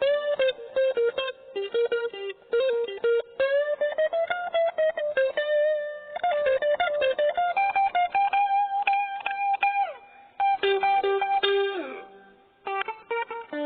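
Cheap maple-body electric guitar playing a picked melody with chord notes, with a downward slide about twelve seconds in.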